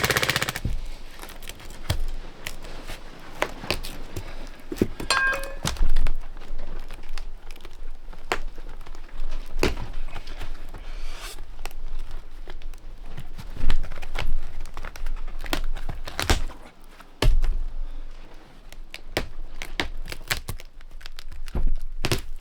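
Irregular knocks, thunks and scraping of hand work in a confined space, with some tearing and crinkling between the hits and a short tone about five seconds in.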